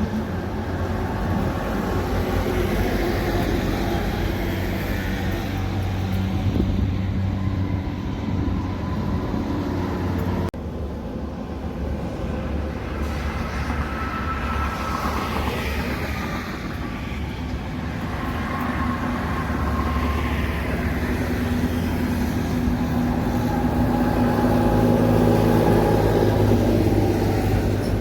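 Heavy truck engines and road traffic running steadily, with a low engine hum throughout; the sound shifts abruptly about ten seconds in.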